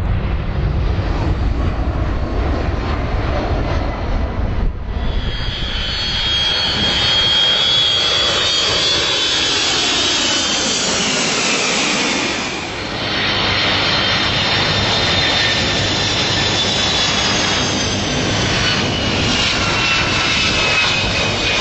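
Large jet airliner's engines passing close by: a loud, high whine of several tones slowly falling in pitch over a rushing roar with a sweeping, phasing quality. A deep rumble fills the first few seconds before the whine sets in.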